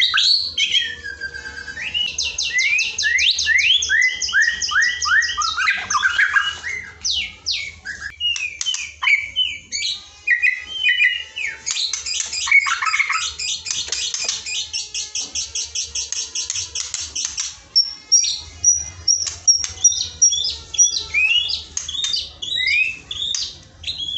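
Recorded songbird song played as a masteran training track for white-rumped shamas (murai batu). It is a continuous run of whistled notes sliding up and down, with long fast trills of repeated notes a couple of seconds in and again around the middle.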